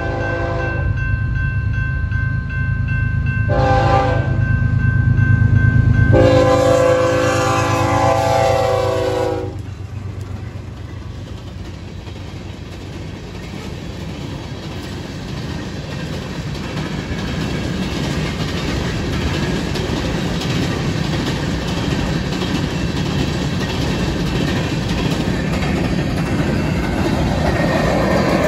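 BNSF diesel locomotive horn sounding for a grade crossing: a blast ending just after the start, a short one about three and a half seconds in, then a long one lasting about three seconds. Under it are the locomotives' engine rumble and a steady crossing bell. After the horn the grain train's covered hopper cars roll by with steady wheel-on-rail clatter, growing louder toward the end.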